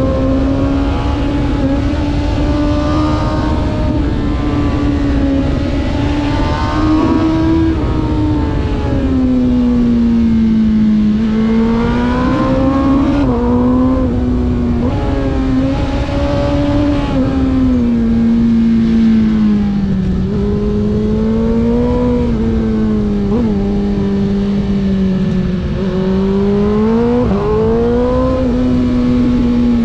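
Race vehicle's engine running hard at high revs, its pitch climbing and dropping again and again as it accelerates and eases off, over a steady rush of noise.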